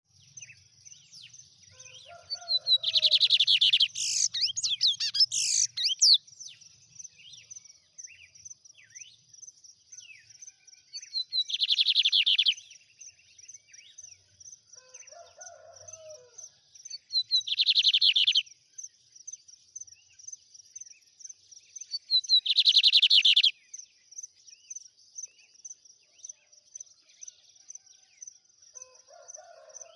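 Lined seedeater (bigodinho) singing its fast, trilled 'trem bala' song in four loud bursts, the first a few seconds long and the rest about a second each. A steady high chittering runs underneath.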